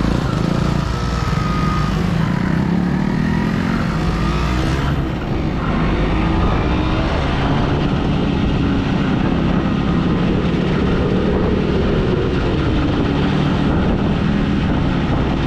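125 cc motorcycle engine running under way, its pitch gliding up and down as the rider works the throttle, with a short dip about five seconds in, over a wide rush of noise.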